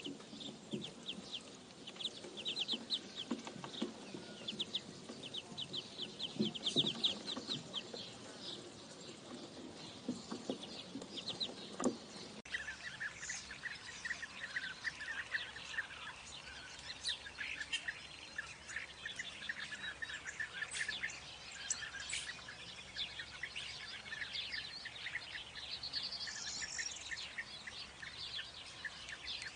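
Birds calling: for about twelve seconds a fast run of high repeated chirps with lower, shorter calls beneath, then an abrupt cut to a different mix of scattered chirps and calls.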